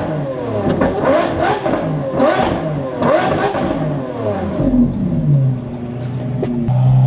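Lamborghini Aventador SVJ's 6.5-litre V12 revved repeatedly in quick throttle blips, each rising and falling in pitch. It settles to a steady idle in the last couple of seconds.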